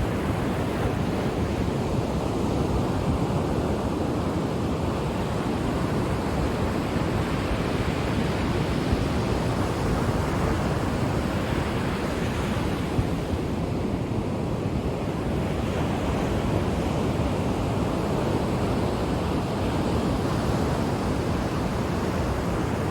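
Ocean waves breaking and washing up a beach: a continuous rush of surf that swells and eases slowly as each wave comes in.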